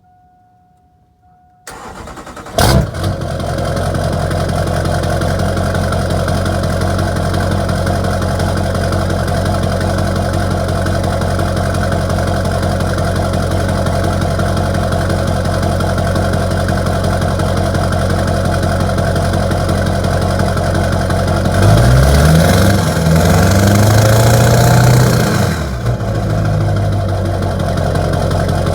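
LB7 Duramax 6.6-litre turbodiesel V8 through a straight-piped 5-inch exhaust, cranking and catching about two seconds in, then idling steadily. Near the end it is revved up and down a few times, louder, then drops back to idle.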